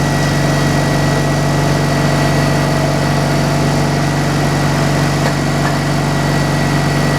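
Engine running steadily at a constant speed, with an even hum and a thin high whine that do not change.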